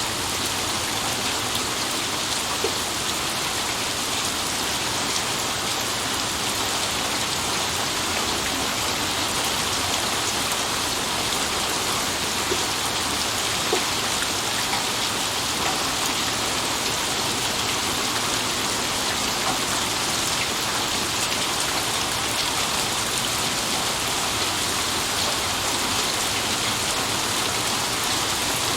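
Steady rain falling, an even continuous hiss with a few distinct drop ticks here and there and no thunder.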